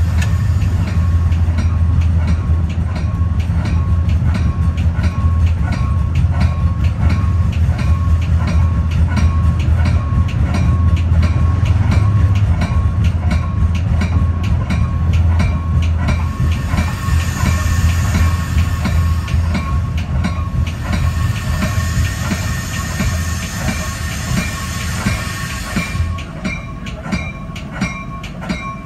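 Metra commuter train running on the rails, heard from inside the front of the train: a steady low drone with a regular clickety-clack of wheels over rail joints and a thin steady whine. Near the end the drone fades and the sound eases off as the train slows for a station stop.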